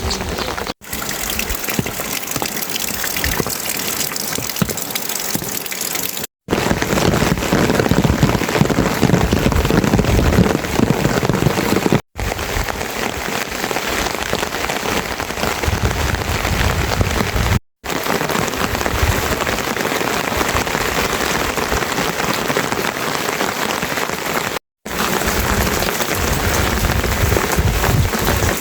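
Steady rain falling and pattering, in several stretches broken by four brief silent cuts, some stretches heavier and deeper than others.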